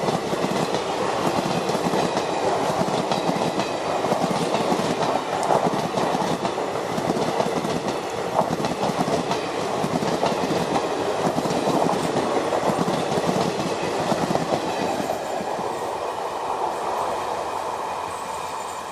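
Indian Railways train running on the rails, its wheels clattering over the rail joints with a steady rumble, growing quieter over the last few seconds.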